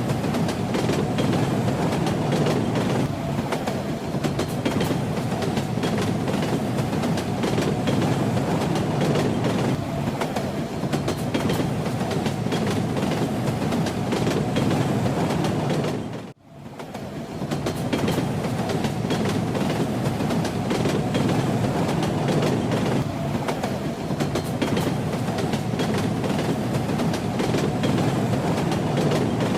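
Moving train: a steady rumble with the clickety-clack rattle of its wheels on the rails. About sixteen seconds in, the sound drops out almost to silence for a moment, then fades back in.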